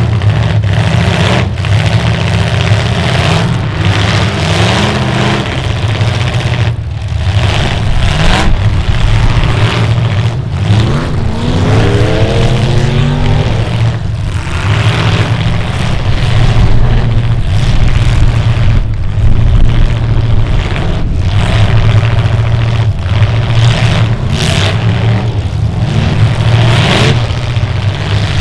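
Several demolition derby cars' engines running loud and revving hard, the pitch climbing and falling as the drivers push against each other, with occasional sharp hits.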